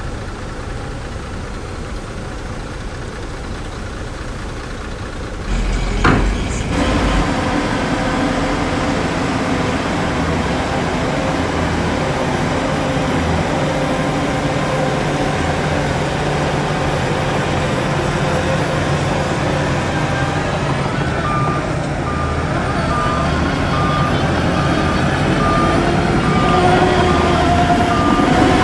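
Heavy diesel engine of earthmoving machinery running under load, getting louder about six seconds in. From about three-quarters of the way through, a reversing alarm beeps at an even pace.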